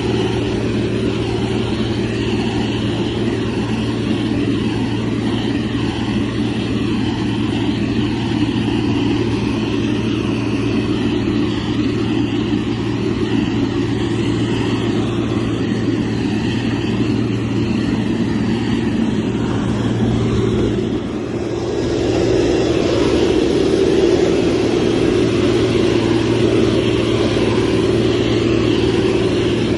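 Motor grader's heavy diesel engine running steadily under working load. About two-thirds of the way through the revs drop briefly, then it picks up again and runs slightly louder.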